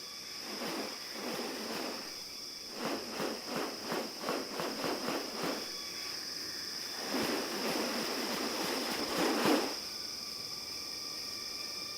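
Steady high-pitched insect drone of tropical rainforest, with a run of quick rasping pulses, about three a second, a few seconds in, and a longer, louder rustling burst near the end.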